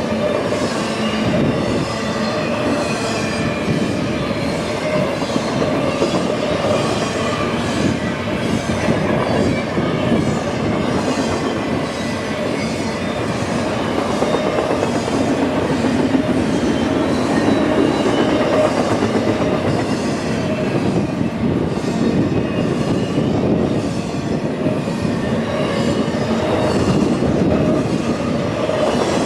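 A train's cars rolling past steadily, steel wheels clattering rhythmically over the rails, with a faint thin squeal of wheels.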